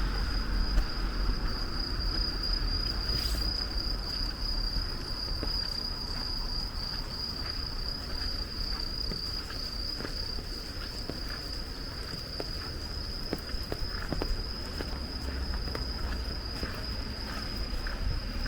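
Insects, likely crickets, singing one steady, high-pitched trill without a break, over a low rumble and scattered light taps of rain.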